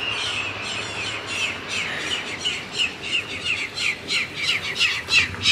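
Birds squawking in a rapid series of short, harsh calls that come faster and louder toward the end.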